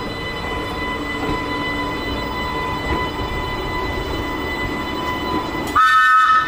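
Class 484 electric train running, a steady rumble with a thin high electrical whine. Near the end a short, loud blast of several tones sounding together cuts in.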